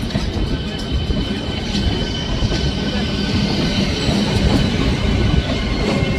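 Electric train running on the rails with a steady heavy rumble and wheels clattering over the track. A thin, steady high squeal sits above it.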